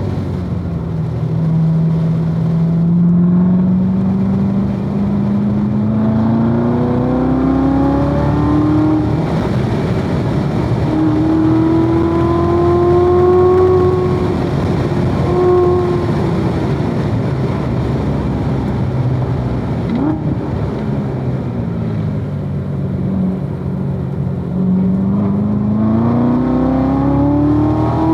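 2016 Corvette Z06's supercharged 6.2-litre V8 under load on track. The engine note climbs steadily for about nine seconds, drops at a gear change and climbs again. It then falls lower as the car slows for a corner and climbs once more near the end.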